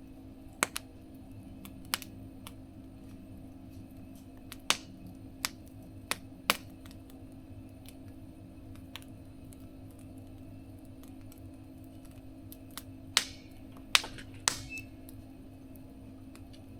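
Wood fire crackling in a mesh fire-pit stove: sharp pops at irregular intervals a second or several apart, with a quick cluster of louder pops near the end, over a steady low hum.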